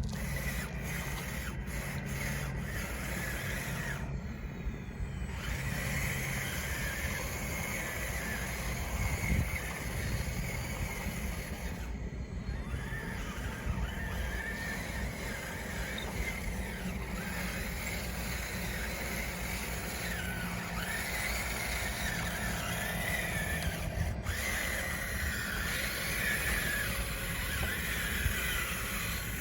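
Small electric drive motors and gearboxes of a radio-controlled construction model running with a steady hum, with wavering high squeals from the drive and tracks working in the dirt.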